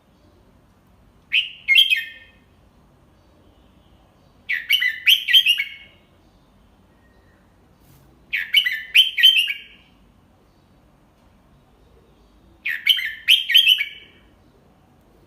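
Red-whiskered bulbul singing a short phrase of a few quick, clear notes, repeated four times about four seconds apart. It is a tutor bird's song of the kind played for young bulbuls to learn and copy.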